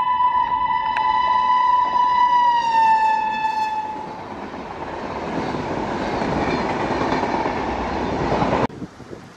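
Indian Railways electric locomotive sounding one long horn blast as it approaches and passes, the horn's pitch dropping as it goes by. Then the coaches roll past with steady wheel and rail noise, which cuts off suddenly near the end.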